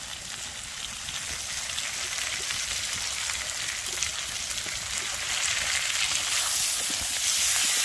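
Tomatoes, potatoes and spice paste sizzling in mustard oil in a kadai, with a few light scrapes of the stirring spatula; the sizzle grows louder toward the end.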